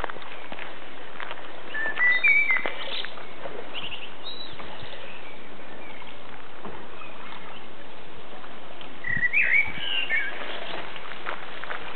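Small birds singing: short, warbling chirpy phrases about two seconds in and again near the end, over a steady outdoor hiss with a few light knocks.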